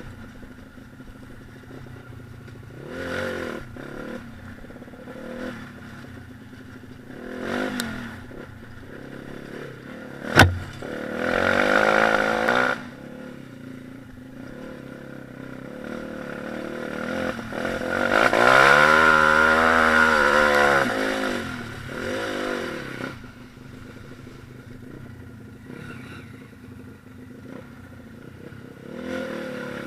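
Pit bike engines revving and riding past in short bursts of throttle, with a sharp knock about ten seconds in. The loudest and longest run comes about two-thirds of the way through, its pitch rising and then falling.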